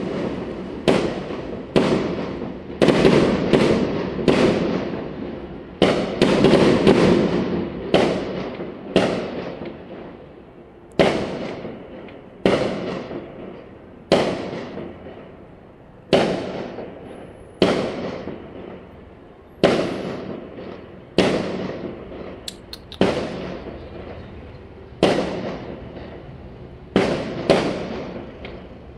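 Fireworks going off in a long series of sharp bangs, about one every second or two, each trailing away in a long echoing rumble. The bangs come thickest in the first eight seconds or so.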